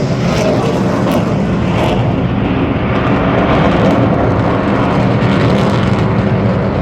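Display aircraft flying past with loud, steady engine noise; the higher part of the sound thins out after about two seconds.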